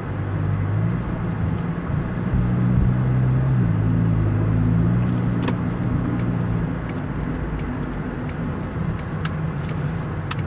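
A Honda Fit Hybrid's 1.5-litre four-cylinder engine hums steadily at low speed through a Kakimoto aftermarket muffler, over tyre noise on asphalt. The engine note weakens about two-thirds of the way through, and a few light clicks follow.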